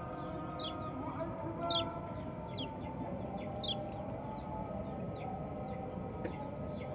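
White-eye (pleci) giving short, high chirps that slide downward, repeated about once a second, clearest in the first few seconds and fainter later, over a steady background of lower tones.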